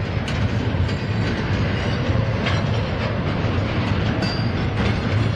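Double-stack intermodal freight train rolling by: a steady low rumble of steel wheels on rail, with scattered clacks as the well cars pass over the rail joints.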